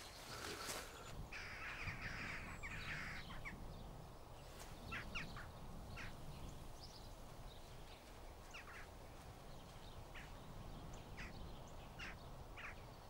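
Birds calling, faint: short separate calls every second or so, with a longer stretch of calling about one to three seconds in, over a steady low background noise.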